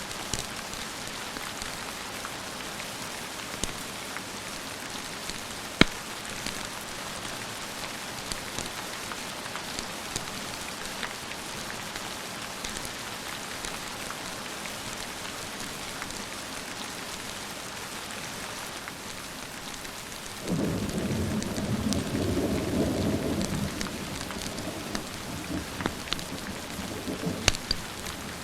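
Steady rain with a few sharp clicks, then a roll of thunder that starts suddenly about 20 seconds in, rumbles for a few seconds and fades away.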